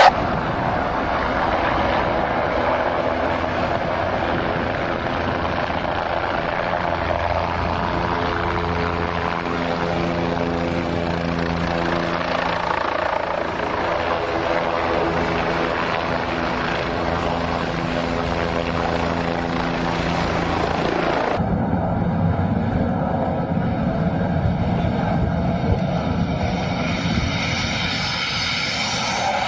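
Aircraft engine or rotor running steadily with an even, pitched drone. About two-thirds of the way through, it cuts abruptly to a different aircraft recording with a rougher, noisier engine sound.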